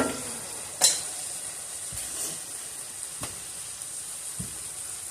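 Cubed beef frying in butter on high heat, sizzling with a steady hiss, broken by about four short knocks, like a utensil against the pan.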